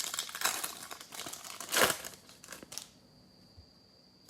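Trading-card pack wrapper crinkling as it is handled and pulled open, with a louder crackle a little under two seconds in. The crinkling stops about three seconds in.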